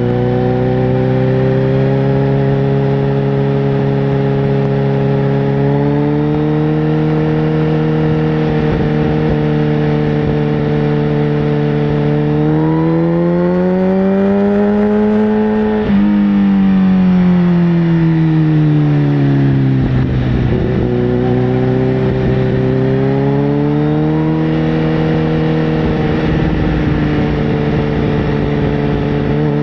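Sportbike engine running under way, holding steady revs, then revving up to a peak about halfway through. The revs cut off sharply and fall away for a few seconds before picking up again and holding steady.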